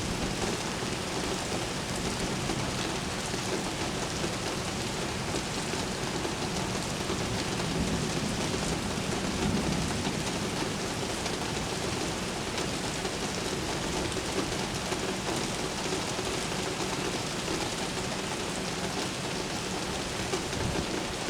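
Steady rain falling in a thunderstorm, an even hiss of drops, with a low rumble of distant thunder swelling briefly around the middle.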